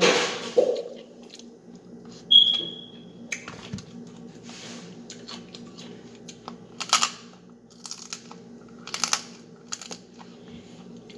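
King crab leg shell being cracked and broken apart by hand: a sharp snap about two seconds in, then scattered crunches and crackles, with close-up chewing. A faint steady hum runs underneath.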